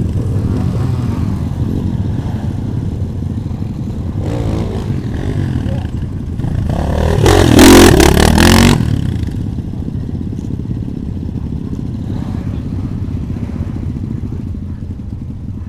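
Several small motorcycle engines (pit bikes and enduro bikes) running together at low revs. About halfway through, one bike's engine gets much louder for about a second and a half.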